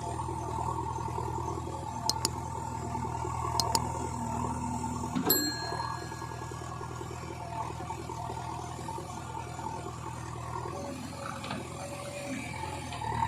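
Diesel engine of heavy farm or earthmoving machinery running steadily, with a few sharp metal clicks and one ringing metallic clang about five seconds in.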